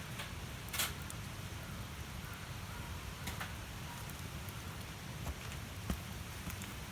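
Campfire cooking: scattered crackles and a few sharp pops over a steady low rumble.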